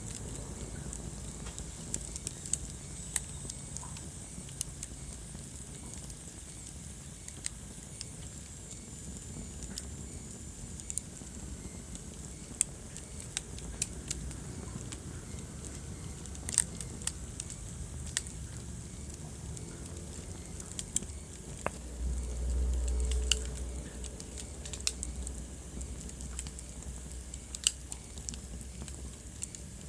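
Wood fire burning in a fireplace: irregular sharp crackles and pops over a steady low rumble of flames, with a brief louder surge of the low rumble about two-thirds of the way through.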